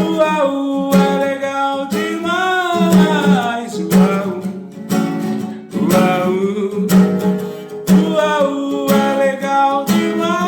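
Acoustic guitar strummed in a steady rhythm under a voice singing long, gliding wordless 'uau' calls, like a wolf's howl.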